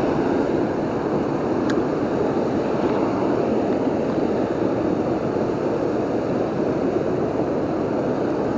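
Waterfall and river water rushing steadily, with one small click just under two seconds in.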